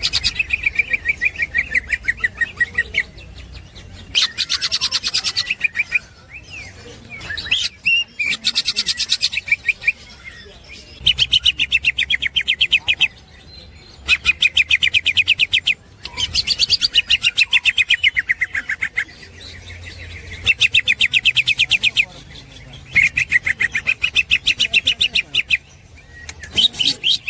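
Green leafbird (cucak ijo) singing its 'ngekek' chatter: bouts of very rapid repeated high notes, each lasting two to three seconds, broken by short pauses.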